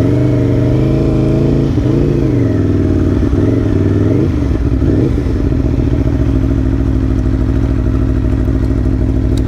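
Motorcycle engine running loud, its pitch falling and rising for the first few seconds as the revs change, then holding steady. The sound cuts off suddenly at the end.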